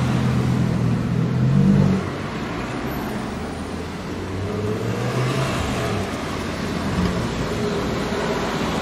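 Lamborghini Huracán Evo Spyder's V10 engine pulling away at low revs. The note rises and then drops off sharply about two seconds in, rising again more gently a few seconds later as the car drives off, over steady street traffic.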